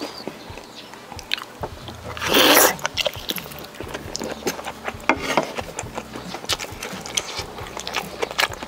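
Crisp fried shrimp being bitten and chewed close to the microphone. A loud crunching bite comes a little over two seconds in, then a steady run of sharp crunching chews.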